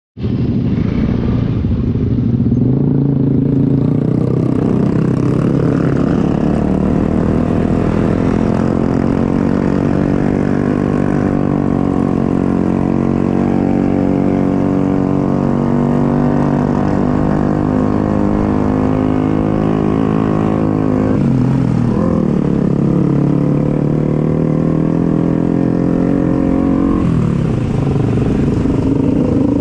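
Bajaj Pulsar NS200's single-cylinder engine running under way, its pitch climbing slowly and then falling with throttle and gear changes, with a sharp drop about two-thirds of the way through.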